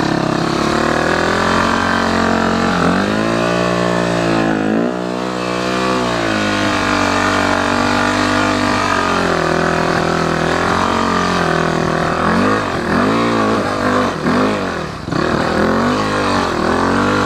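Yamaha WR400 dirt bike engine revving hard under load on a steep hill climb. It holds high revs, dips and picks up again a few seconds in, then swings up and down in quick blips of the throttle near the end.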